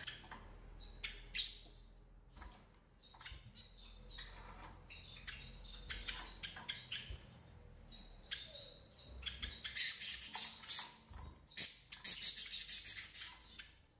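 Small cage birds chirping: short high chirps, scattered at first, then quick runs of chirps in the last few seconds.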